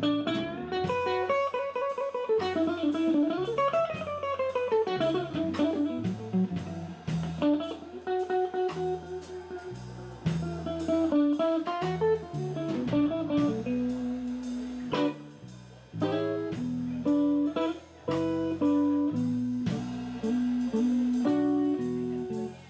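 Blues band playing live: a guitar lead winds up and down over bass and drums, with no singing.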